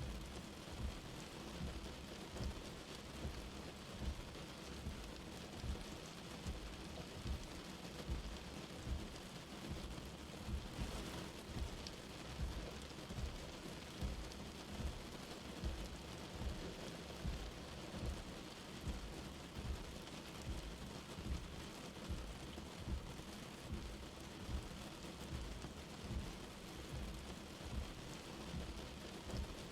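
Light rain falling steadily: an even patter and hiss, with soft low thuds about once a second underneath.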